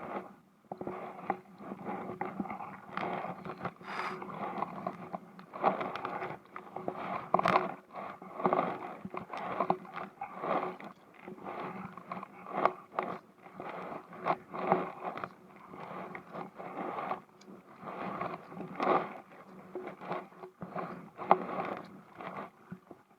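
Irregular scraping and rubbing noises close to the microphone, some sharper than others, with no even rhythm, over a faint steady hum.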